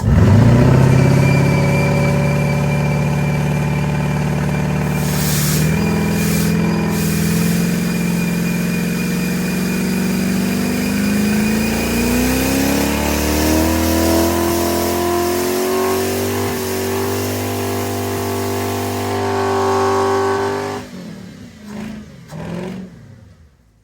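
Ford Crown Victoria V8 held at high revs during a burnout run on nitrous. It climbs in pitch about halfway through, holds, and cuts off suddenly near the end, followed by two short blips.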